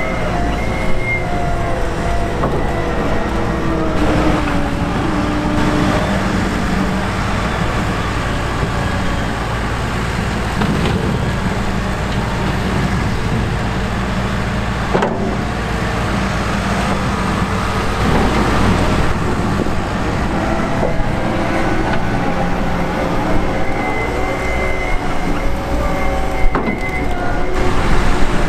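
Heavy diesel beet harvesting or loading machinery running steadily, with whines rising and falling over the engine and an occasional knock.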